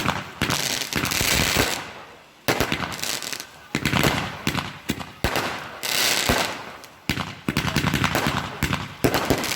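Fireworks going off in rapid volleys of sharp bangs and crackles. They come in waves a second or two apart, with hissing between them.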